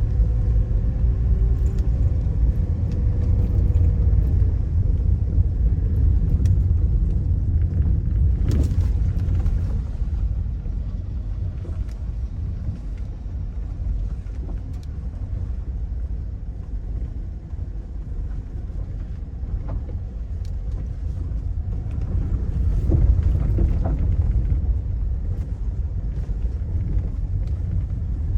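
A vehicle driving, heard as a steady low rumble with a few short knocks and bumps.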